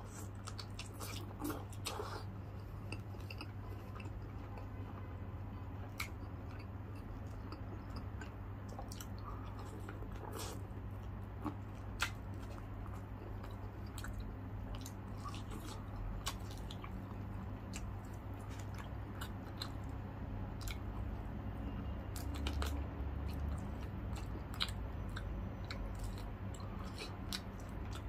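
Close-miked chewing and biting of deep-fried chicken leg quarter, with scattered crisp crunches and clicks, over a steady low hum.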